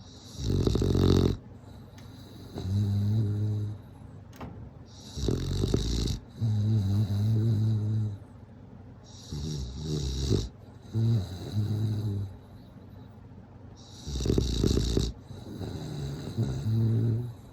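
Bulldog snoring in its sleep, four slow breaths, each a harsh rasping snore followed by a lower fluttering buzz.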